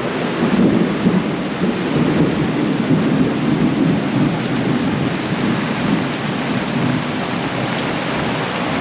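Heavy rain pouring down, drumming steadily on a boat's canvas canopy.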